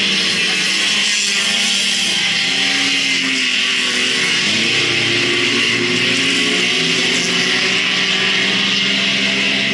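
Several speedway race car engines running together at once, a steady loud drone with engine pitches wavering as the cars rev through the laps.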